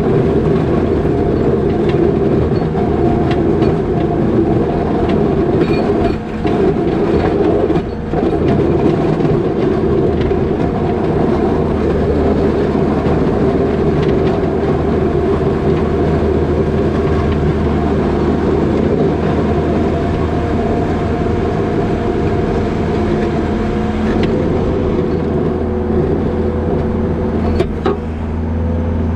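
New Holland L220 skid steer's diesel engine running hard with a steady whine while it pushes snow with a box plow. The level dips briefly about six and eight seconds in, and the tone shifts near the end.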